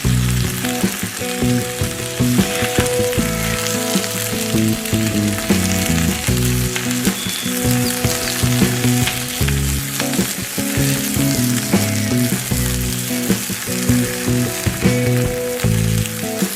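Hot oil sizzling steadily as food fries in a miniature pan, with small clicks of stirring, over background music.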